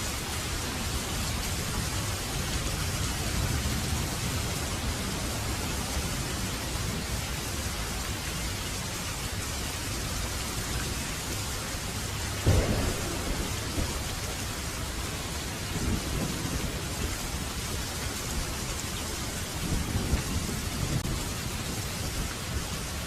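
Heavy rain falling steadily, with thunder rumbling low through it and one sharp, louder thunderclap about halfway through.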